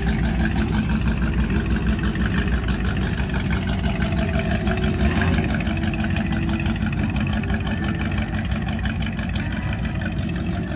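Car engine idling loudly with a rapid, uneven exhaust pulse, easing off slightly near the end.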